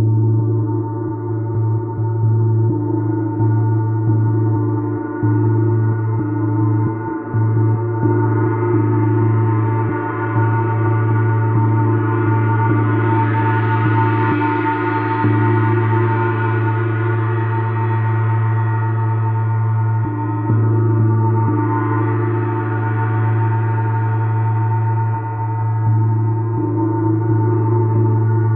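A gong played continuously in a gong bath: a sustained, dense tone with a deep low hum and a wash of higher overtones that grows brighter about halfway through and again about three-quarters of the way in.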